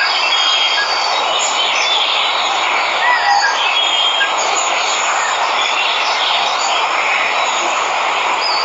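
Waterfall rushing steadily, with birds chirping and whistling over it.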